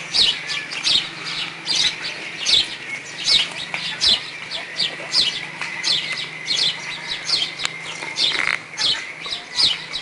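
Bird chirping over and over in short high chirps, each falling in pitch, about three a second, over a faint steady hum.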